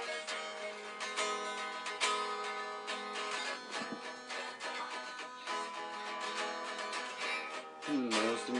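Guitar intro of a pop song, plucked and strummed, with a voice starting to sing just before the end.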